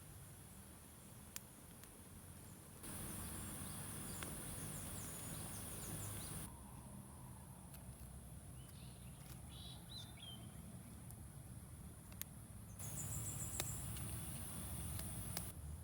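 Quiet outdoor ambience: a steady high-pitched insect drone, with a few faint bird chirps and scattered sharp clicks. The background changes abruptly a few times.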